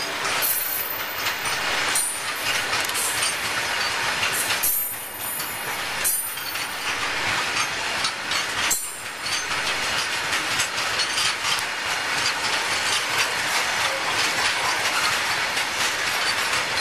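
Covered freight wagons of a goods train rolling past at speed. The wheels clatter rhythmically over the rail joints over a steady rush of running noise.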